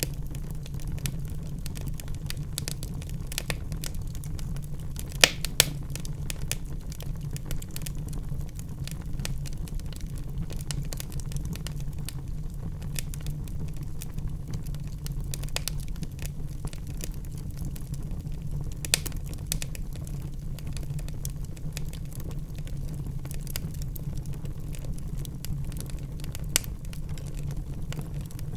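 Wood fire in a fireplace crackling, with a steady low rumble under it. Dense, irregular small crackles run throughout, with a few louder pops: two about five seconds in, one past the middle and one near the end.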